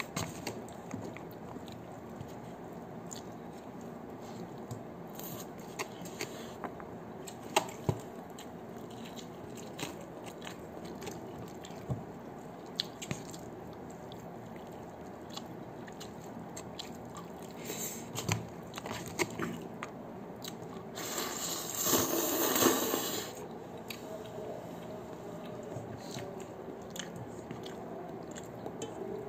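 Close-up eating sounds of a man eating with his fingers: biting and chewing with occasional crunches, over steady room noise. Past the middle comes a louder burst of noise that lasts about two seconds.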